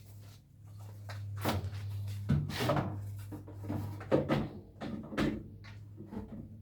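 A steady low electric-sounding hum that fades out near the end, under a run of knocks, clunks and clatter.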